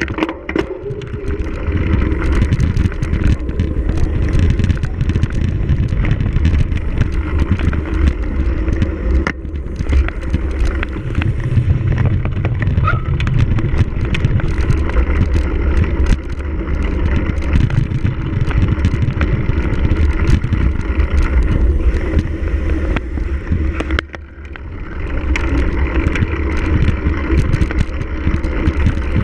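A cyclocross bike ridden hard over rough race ground: wind buffeting the microphone, with a steady stream of rattles and clicks from the bike. The noise dips briefly about three-quarters of the way through, then builds back.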